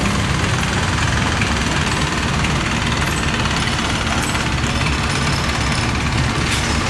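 A boat engine running steadily: a continuous low rumble with a rapid, even beat.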